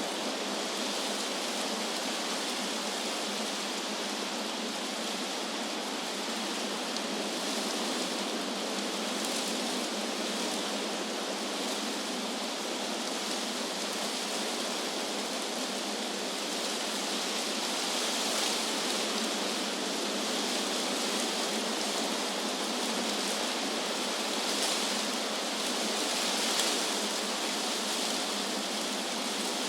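Wind blowing through trees, a steady rushing hiss of moving leaves that swells gently a few times in the second half.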